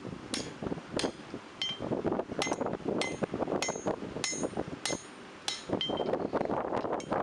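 Hammer blows on hot steel at the anvil, about one and a half strikes a second, each blow ringing with a clear metallic tone, over a steady rushing noise.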